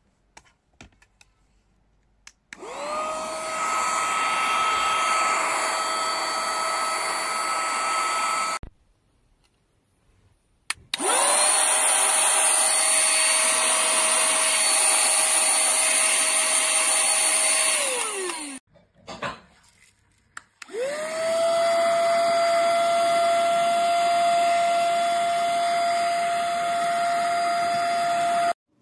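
Handheld cordless mini vacuum cleaner switched on three times. Each time its motor spins up quickly to a steady high whine and runs for several seconds. The second run is hissier and winds down with a falling pitch as it stops.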